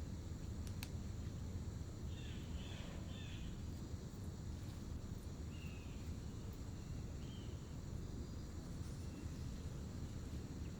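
Steady low background rumble with one sharp click near the start and a few short, faint high chirps spread through the middle.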